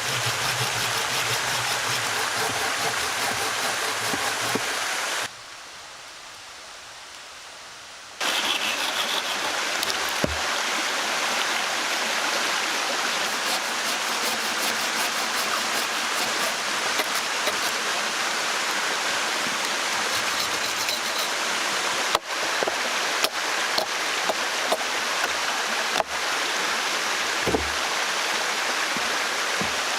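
Steady rushing of running water, like a stream, with a much quieter stretch about five to eight seconds in. A handful of sharp knocks come in the last third.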